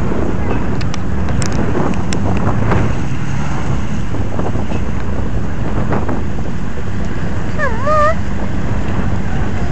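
Strong wind buffeting the microphone over a steady low engine rumble from the autograss cars. About eight seconds in, a brief wavering tone dips and rises.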